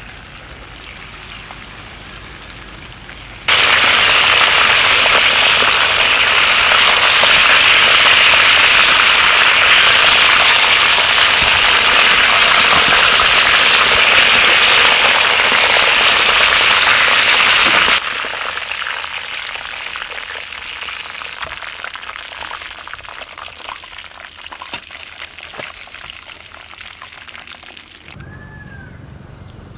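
Food sizzling in hot oil in a cooking pan. A loud, even hiss starts suddenly a few seconds in, drops abruptly after about fourteen seconds, and fades to a quieter crackling sizzle.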